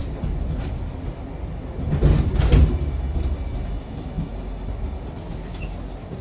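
Hiroshima Electric Railway streetcar running with a steady low rumble. About two seconds in, its wheels knock twice in quick succession over a rail joint, with light clicks and rattles around them.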